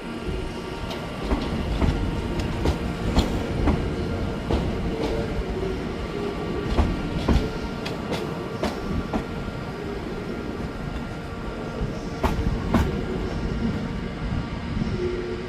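A train running along the track: a steady rumble and hum, with irregular sharp clicks of wheels over rail joints.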